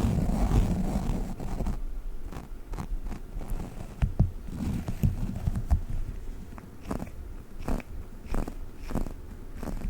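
Close-miked Globbles sticky gel balls being squished and handled: a dense wet squishing at first, then scattered sticky clicks and pops as the gel peels and taps.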